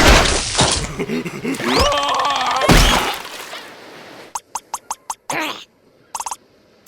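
Cartoon sound effects and squeaky character cries: a loud noisy rush with squeals for about three seconds that fades out, then a quick string of pops, a short squeal and a brief rattle.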